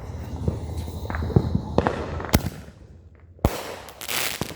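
Consumer fireworks going off: a run of small scattered pops, then two sharp bangs about a second apart, the second followed by a short hiss.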